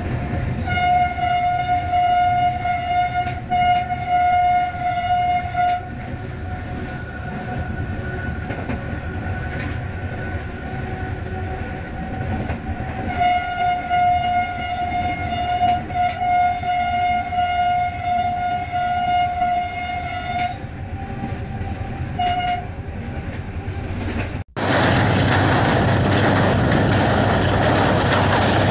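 A locomotive air horn sounds in two long blasts over the running noise of a moving train, then gives a short toot. After a cut the horn stops and the train's wheels run loudly and steadily over the rails.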